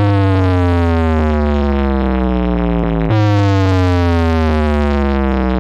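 Loud synthesized bass tone with buzzy overtones, played through loudspeakers as a speaker check. It slides slowly down in pitch, jumps back up about three seconds in and slides down again.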